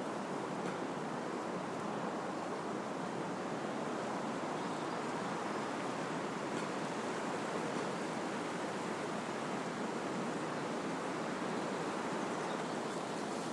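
Wind rushing through trees, a steady even sound with no distinct gusts.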